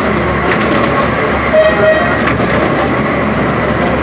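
15-inch gauge miniature train running, heard from an open passenger carriage: a steady rumble and clatter of wheels on the track, with a short horn toot about one and a half seconds in.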